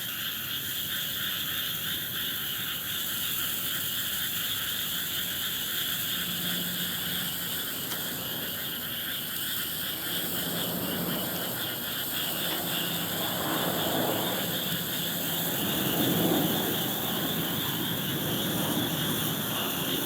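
A night chorus of frogs and insects calling steadily, a dense pulsing trill.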